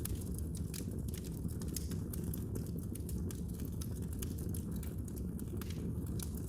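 Wood fire in a fireplace crackling: frequent small, sharp, irregular pops over a steady low rumble of the burning.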